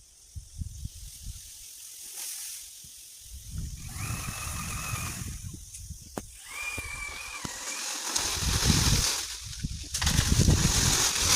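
Strong wind buffeting the microphone in gusts, a low rumble under a rushing hiss, growing louder towards the end. Two short, steady high tones sound about four and six and a half seconds in.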